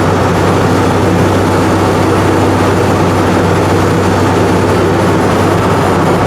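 A 1962 Chevy C10's freshly rebuilt 235 straight-six running steadily while the truck drives along, heard from inside the cab with road noise. The engine is still noisy because its rockers have not yet been adjusted.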